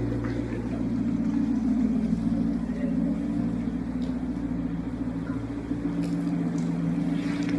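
A motor vehicle's engine running steadily close by, a low even hum with a few held tones, which sets in abruptly just before the start.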